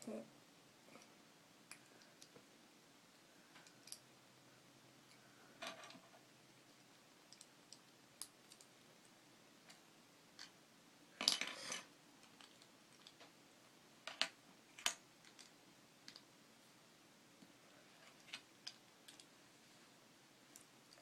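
Scattered faint clicks and snaps of small plastic Lego bricks being handled and pulled apart, with a louder clatter about eleven seconds in and two sharp clicks a few seconds later.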